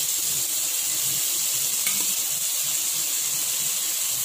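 Marinated paneer cubes sizzling steadily as they fry in hot oil in a kadai, with a faint tap about two seconds in.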